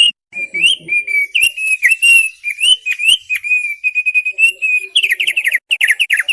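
Thick-billed white-eye singing: a fast, unbroken run of varied whistled and chirping notes, changing about five seconds in to a rapid series of short downward-slurred notes.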